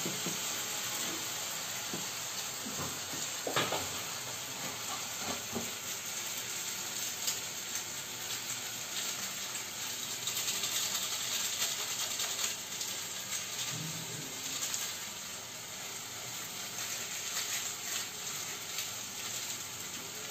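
Spice paste (masala) frying in oil in a metal wok, a steady sizzle as it is cooked down until the oil separates. A spatula scrapes and taps against the wok now and then, mostly in the first few seconds.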